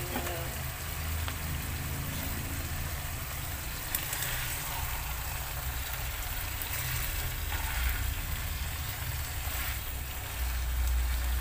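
Jengkol slices and spice paste sizzling in a nonstick wok while a spatula stirs them, with a couple of short scrapes or taps of the spatula on the pan. A low rumble runs underneath and grows louder near the end.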